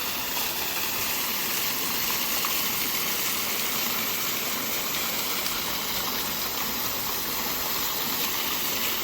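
Steady rush of falling or flowing water, like a small waterfall or stream close to the microphone.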